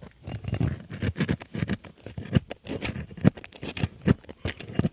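Irregular scraping, scratching and knocking of asphalt 3-tab shingles being worked loose and pried up from the roof deck.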